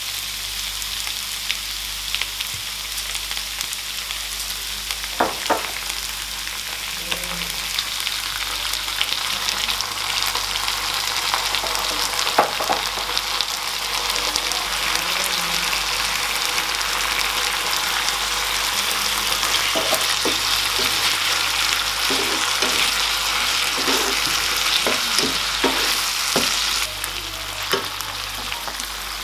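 Onions and bell peppers stir-frying in tomato and soy sauce in a nonstick pan: a steady sizzle, with scrapes and taps of a wooden spatula now and then, more often near the end.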